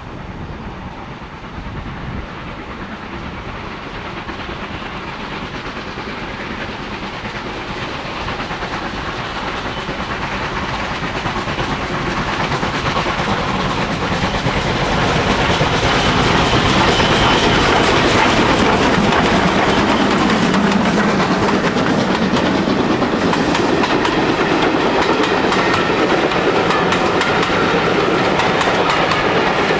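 Train running on the rails, growing louder over about the first fifteen seconds and then staying loud and steady.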